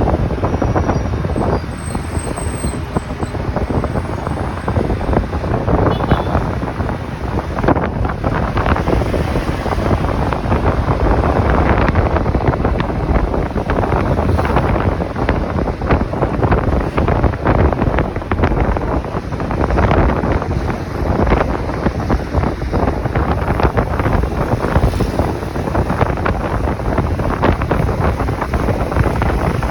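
Wind buffeting the microphone of a moving motorcycle, mixed with the bike's engine and road noise.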